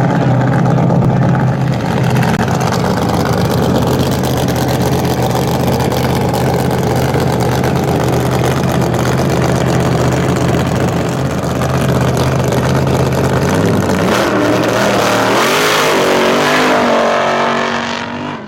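A muscle car's V8 engine running loud at steady high revs for about thirteen seconds, then its revs rising and falling unevenly and dropping away near the end.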